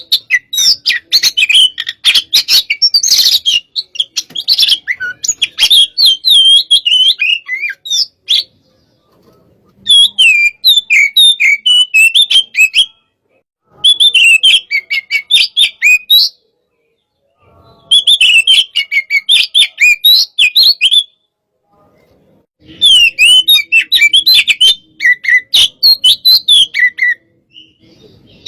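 Oriental magpie-robin (kacer) singing loudly in rapid, varied whistles and chirps, in five bursts of song separated by short silences: the fast, aggressive song of a 'hot-type' bird.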